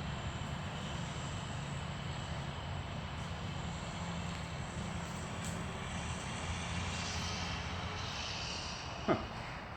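Steady engine drone, with a brief sharp sound falling quickly in pitch about nine seconds in.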